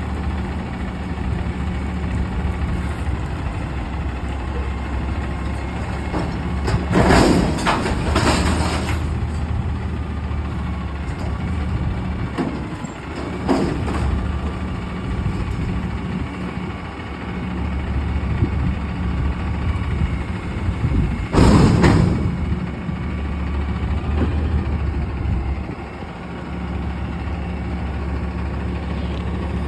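Front-load garbage truck's diesel engine running steadily, with brief loud bursts of noise about 7 seconds in, again near 14 seconds, and loudest about 21 seconds in.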